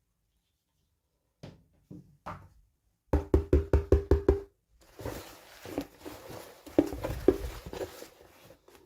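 Toy packaging being handled: a few light clicks, then a quick run of about eight sharp knocks, followed by rustling with scattered knocks.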